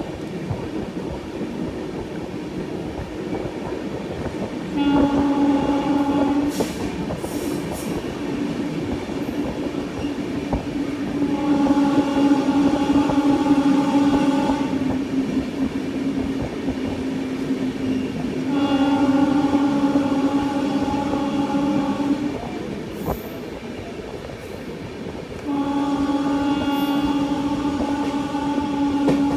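Train horn sounding four long blasts a few seconds apart, the last running to the end, over the steady rumble and rattle of a moving passenger train's wheels on the track.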